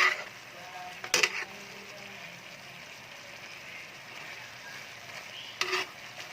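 Chicken in a thickened milk sauce simmering in a pan, with a faint, steady sizzle. There is one sharp knock about a second in and a couple more near the end.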